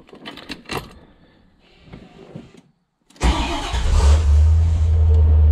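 Chevrolet C4 Corvette's 5.7-litre V8 started with the key about three seconds in, catching at once, rising briefly and then settling into a steady idle. A few soft clicks come before it.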